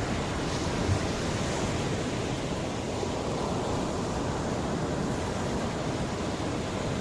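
Mediterranean sea waves washing steadily on the shore, a continuous surf rush with a brief low thump about a second in.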